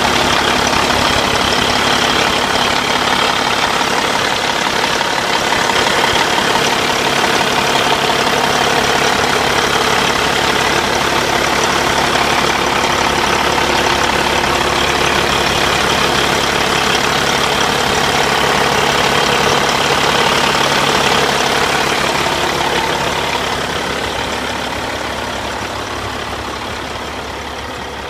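Caterpillar diesel engine of a 2008 Peterbilt 388 highway tractor idling steadily, growing quieter over the last few seconds.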